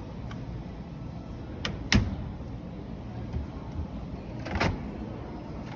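Sharp knocks that fit washing machine doors being opened and shut on display machines: a loud bang about two seconds in and another clunk a little before the end, over a steady low store hum.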